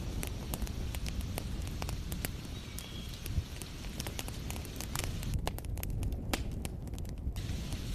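Wood fire crackling, with many sharp, irregular pops over a steady low rumble and hiss.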